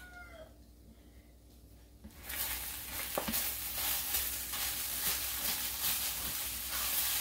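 Rice frying in hot oil in a pan, sizzling as it is stirred and broken up with a spatula. The sizzle comes on suddenly about two seconds in and stays loud, with light clicks of the spatula in the pan.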